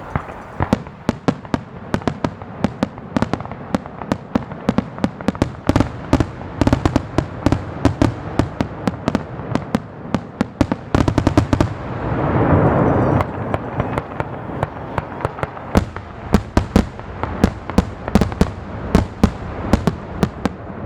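Aerial fireworks going off in a rapid, dense string of sharp cracks and bangs, several a second. About twelve seconds in there is a louder rushing swell.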